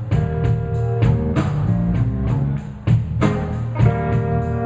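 Live blues band playing an instrumental passage between sung lines: guitar notes over low bass and drums, with a steady cymbal beat.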